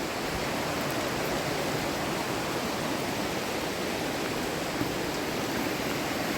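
River water rushing steadily, an even, unbroken wash of sound.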